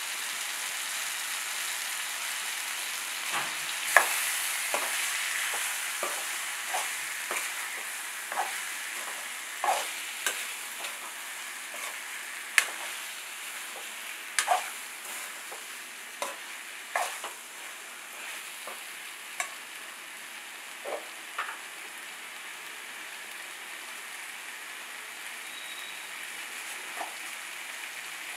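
Chicken masala (onions, tomato, chicken and chili powder) frying in oil in a metal kadai with a steady sizzle, while a metal spoon stirs it and clinks against the pan. The clinks come every second or so at first, thin out in the last third, and the sizzle slowly grows quieter.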